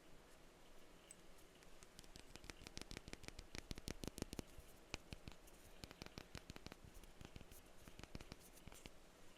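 Faint, quick tapping on a perfume bottle. The taps speed up into a rapid flurry about two seconds in, then thin out to scattered taps for the rest.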